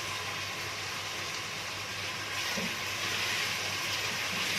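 Chopped onions and garlic frying in ghee in a pot, a steady, even sizzle.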